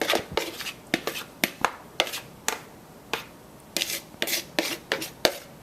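Seasoned potato pieces being tipped and spooned from a bowl onto a metal toaster-oven baking pan: a run of irregular sharp clicks and taps.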